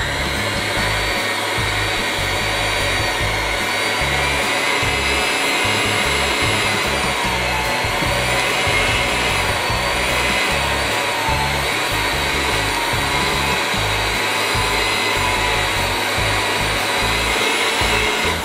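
Electric hand mixer running fast with a single dough hook churning thick crunchy peanut butter in a jar: a steady motor whine that stops at the end.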